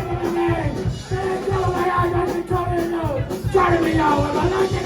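Live band playing loud music: fast, dense drumming under long held notes that step up and down in pitch.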